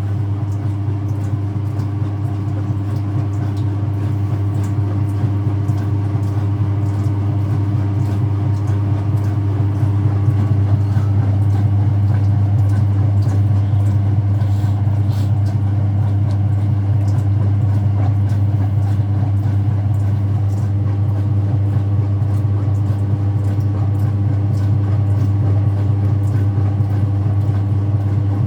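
Speed Queen top-loading washer in its spin cycle, a steady low motor and tub hum that swells a little over the first ten seconds or so as the spin speeds up, then holds steady at about 710 RPM.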